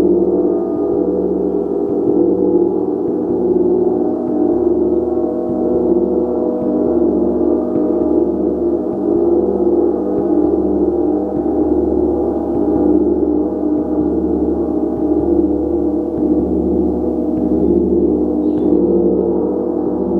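A gong played continuously: a dense, steady wash of many overlapping ringing tones that swells and pulses slowly, with no single strike standing out.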